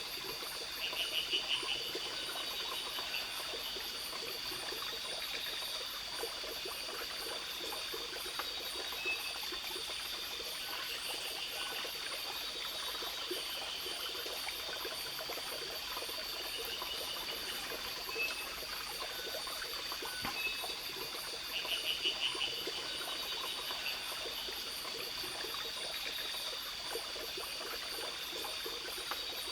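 Forest ambience: water trickling, with a continuous high chorus of insects. A short burst of rapid pulsed calls rises over it about a second in and again about two-thirds of the way through.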